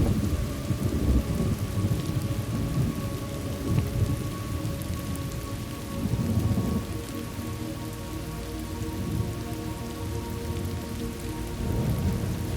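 Thunderstorm ambience: steady rain with low rumbling thunder, swelling at the start, again about six seconds in, and near the end.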